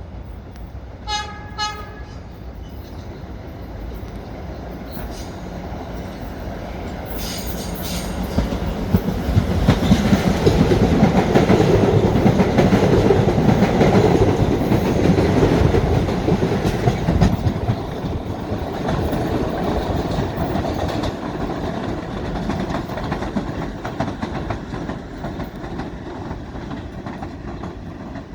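Staten Island Railway electric train giving two short horn toots, then passing. The rumble of its wheels and motors builds to a peak about ten to sixteen seconds in and slowly fades away.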